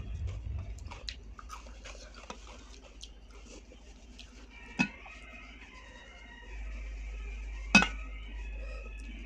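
Eating sounds: quiet chewing and small clicks, broken by two sharp knocks about three seconds apart, the second the loudest. A low steady hum comes in about two-thirds of the way through.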